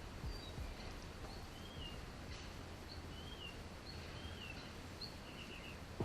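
Small birds chirping now and then, short chirps and brief whistled notes over a faint steady background hum.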